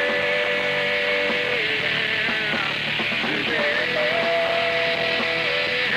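A rock band playing an instrumental passage, with long held lead notes that bend up and down in pitch over the full band.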